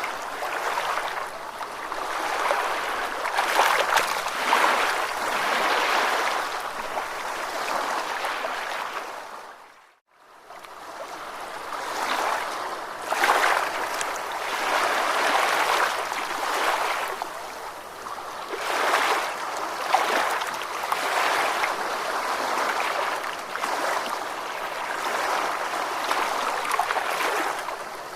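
Ocean waves washing in, a steady rushing with repeated swells. About ten seconds in the sound fades to near silence and then fades back up, like the seam of a loop.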